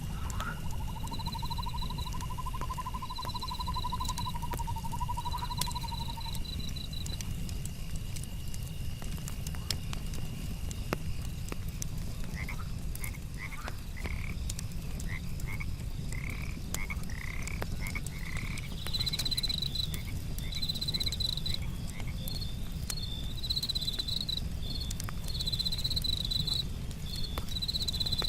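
Frogs calling: a pulsing trill for about the first six seconds, then a run of short chirping calls. They sound over pulsed insect chirping, a steady high insect tone that stops about halfway, and a campfire's scattered crackles.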